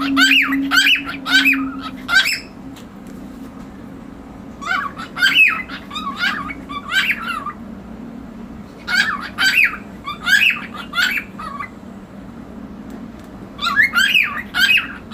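Cockatiel making bouts of rapid, squawky chirps that rise and fall in pitch. There are four bouts, each a couple of seconds long, a few seconds apart.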